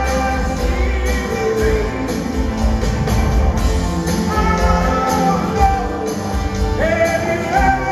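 A rock band playing live on stage: a full band with a steady low end and sustained, sliding melodic lines over it.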